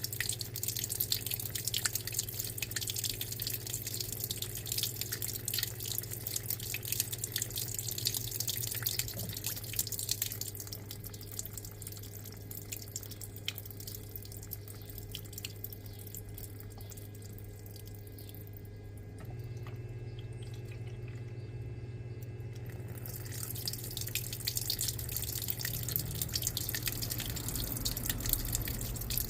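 Electrolux LTA15 top-loading washing machine with water running and splashing in its tub over a steady low hum. The water noise fades away about a third of the way in and comes back in the last few seconds.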